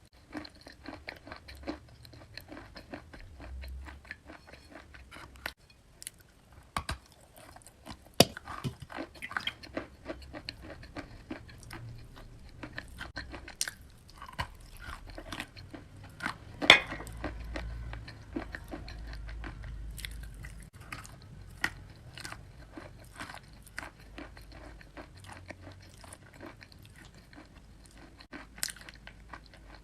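Close-up crunching and chewing as a person bites into and eats wet chalk, a run of irregular crackles with a few sharper snaps, the loudest about 17 seconds in.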